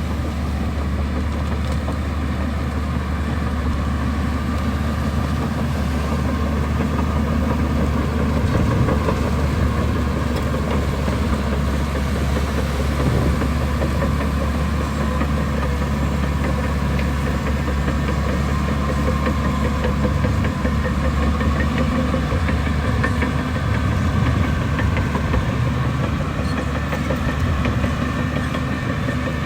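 Diesel engine of heavy earthmoving machinery running steadily, with a strong deep hum.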